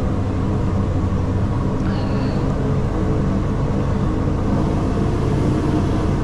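Scania V8 log truck's diesel engine running steadily under load at low speed, heard from inside the cab. A brief faint high tone sounds about two seconds in.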